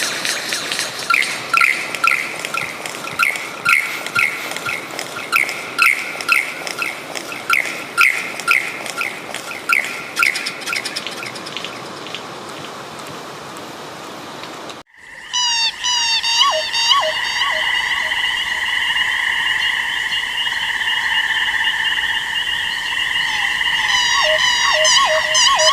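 Animal calls: short high chirps repeated about twice a second, then after an abrupt cut a steady high-pitched chorus with quick chirping calls over it.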